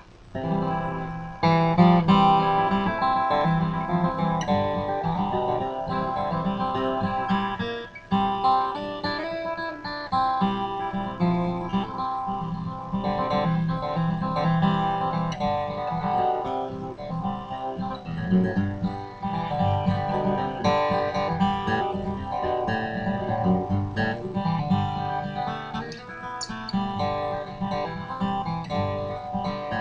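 Seagull Entourage acoustic guitar played solo in a bluegrass style: a steady, quick run of picked notes over bass notes, with some strumming.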